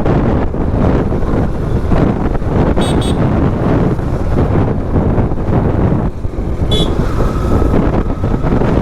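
Wind buffeting the microphone and engine and road noise from a motorcycle riding at speed in traffic. Short high-pitched beeps sound twice about three seconds in and once more near seven seconds.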